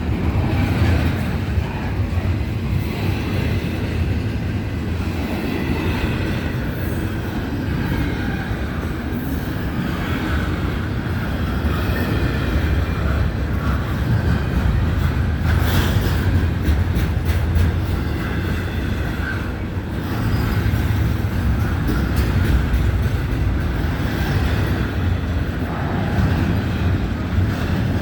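Florida East Coast Railway train's cars rolling steadily past with a continuous low rumble of wheels on rail, and a quick run of sharp clicks a little past halfway.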